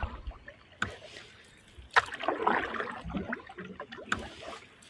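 Canoe paddling: paddle strokes and drips in the water, with two sharp knocks, the louder one about two seconds in.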